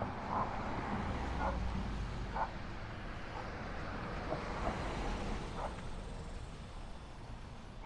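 A dog barking several times, short separate barks about a second apart, over a low steady rumble of neighbourhood ambience.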